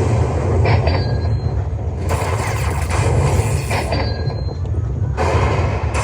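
Slot machine sound effects: a loud, steady low rumble with a short high chime about every three seconds.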